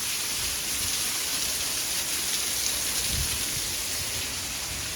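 Hurricane rain falling steadily, an even hiss of downpour.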